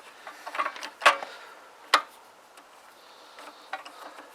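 A few sharp metallic clicks and clinks of tools and parts being handled, the loudest about one and two seconds in.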